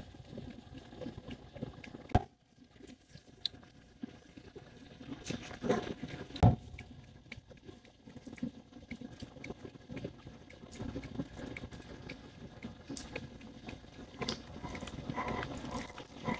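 Irregular handling noise from hands working a wearable breast pump and clothing: soft rustling and small plastic taps, with sharper knocks about two seconds in and twice around six seconds in.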